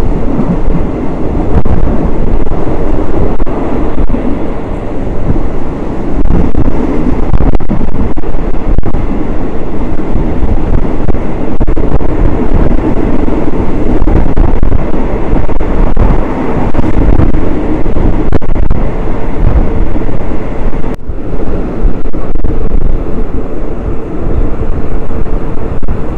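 A passenger train running along the track, heard from inside a third-class carriage: a loud, steady rumble with wind buffeting the microphone.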